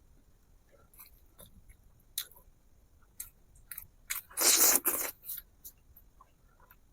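Close-miked eating: a person chewing a mouthful of fish and rice, with scattered short wet mouth clicks and one louder, longer noisy burst about four and a half seconds in.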